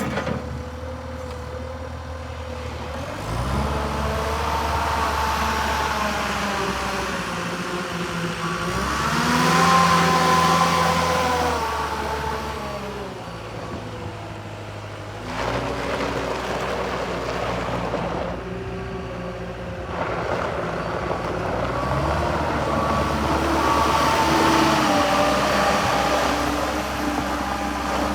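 Takeuchi TS70V skid steer's Perkins 74 hp diesel engine running. Its pitch rises about nine seconds in, falls back a few seconds later, and shifts again as the machine is throttled and worked.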